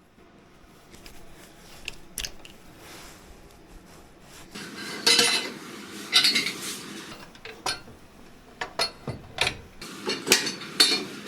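Metal hand tools and parts clinking and clicking against each other during hands-on motorcycle engine work, with a few longer scraping sounds in the middle and a quicker run of sharp clinks near the end.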